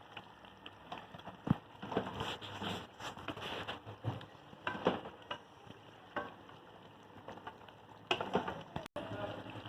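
Chicken karahi gravy sizzling and bubbling in the pan, with irregular clicks and knocks scattered through, loudest about one and a half seconds in and again near the end.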